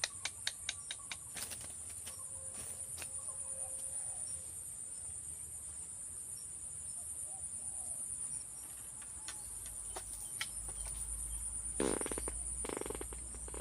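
Insects droning steadily at a high pitch, with a quick run of sharp clicks in the first second or so and a short pitched call near the end.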